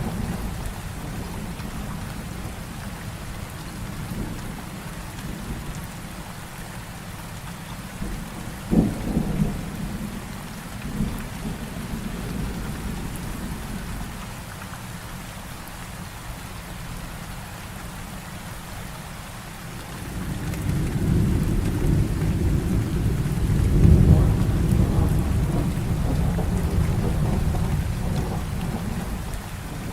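Heavy rain falling steadily through a thunderstorm. A sharp thunderclap about nine seconds in is followed by a short rumble, and from about twenty seconds a long, low rolling thunder builds, peaks, and slowly fades.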